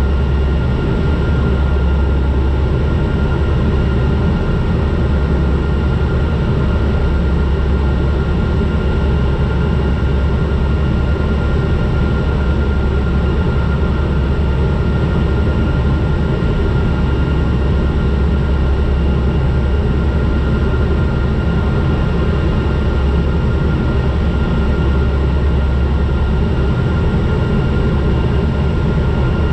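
Turboprop airliner cabin noise on final approach: the engines and propellers give a steady drone with a deep low hum and a thin, unchanging whine.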